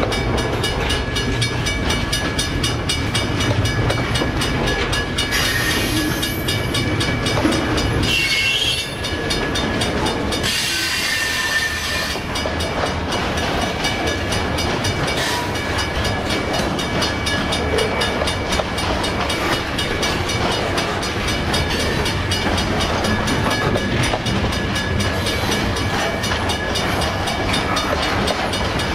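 Freight train passing close by: steady rolling rumble with a rapid clatter of wheels over the rails. Brief high hissing rushes come about six and eleven seconds in.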